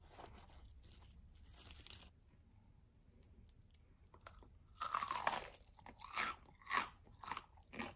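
Crisp, tempura-batter-coated fried chicken drumstick bitten into with a loud crunch about five seconds in, then chewed with sharp crunches about twice a second.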